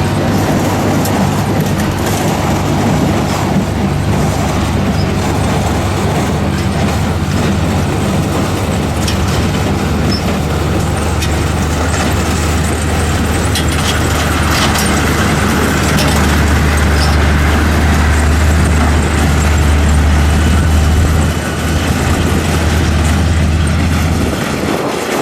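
Heavy diesel farm machinery running steadily, a deep engine drone that grows louder for a few seconds past the middle and drops away near the end, with faint mechanical clicks and rattles over it.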